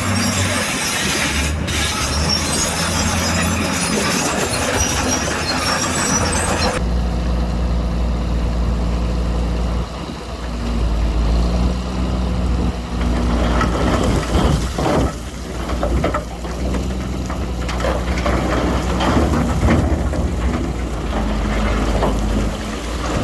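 Diesel engines of heavy earthmoving machinery (bulldozers and dump trucks) running under load, their low hum shifting in pitch as the machines work. The sound changes abruptly about seven seconds in, as if to another machine.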